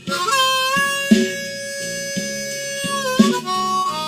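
Harmonica playing a blues fill over backing drums and bass: one long held note, bent up into pitch at the start and dropping off about three seconds in, then a few shorter notes.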